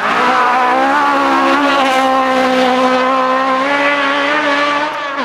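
Rally car engine running hard at high, nearly steady revs. The pitch dips slightly a couple of times, and the sound eases near the end.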